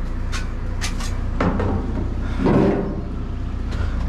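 Clicks and clattering knocks of junk being handled and shifted while rummaging for scrap, with two louder clatters in the middle, over a steady low hum.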